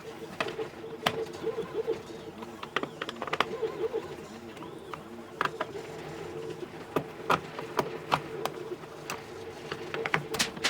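Scattered sharp clicks and taps, as of small parts and hand tools being handled during playfield disassembly, over a steady low wavering background sound.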